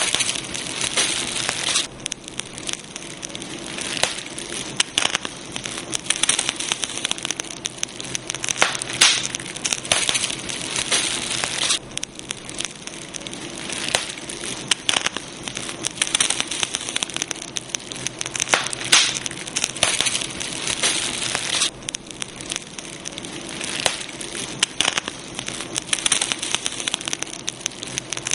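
Campfire crackling: wood burning with a steady hiss and frequent irregular sharp pops and snaps.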